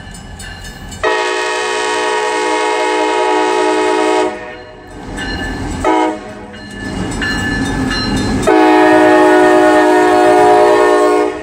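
CSX diesel locomotive's air horn sounding three times: a long blast about a second in, a brief toot near the middle, then another long blast near the end. The locomotive's engine rumbles underneath, and its bell rings faintly before the first blast.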